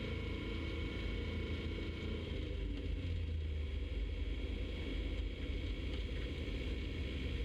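Piper Super Cub floatplane's piston engine running steadily, a constant low drone.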